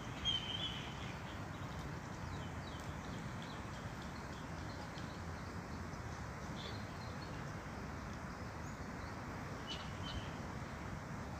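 Steady low background rumble with a few short, high bird chirps: one warbling chirp just after the start is the loudest, and fainter ones come later and near the end.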